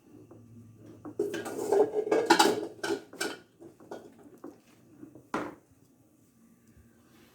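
A pot and utensil clattering and knocking as sugar syrup is added to a batch of homemade soap, with a burst of rapid clinks in the first half and a single sharp knock later.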